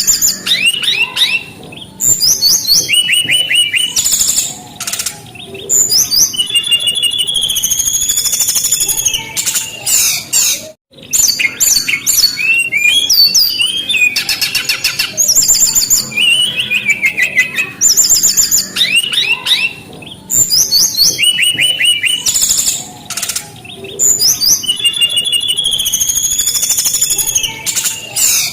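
Brown-chested jungle flycatcher singing a loud, varied song of rapid chirps, trills and whistled phrases. The song drops out for a moment about eleven seconds in, and the same run of phrases comes round again about every twelve seconds, as a looped recording does.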